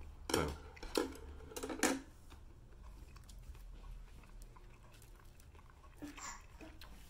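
A person chewing a mouthful of soft bread, with a few short smacking mouth noises in the first two seconds and one more about six seconds in.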